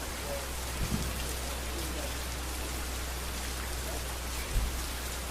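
Steady rain falling on a street, an even hiss of drops on hard surfaces over a low steady rumble, with two brief low thumps: one about a second in and one near the end.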